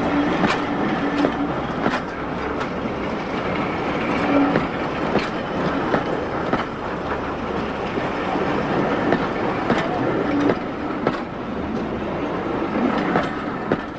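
Passenger train rolling past, its wheels clicking over the rail joints in an irregular clickety-clack.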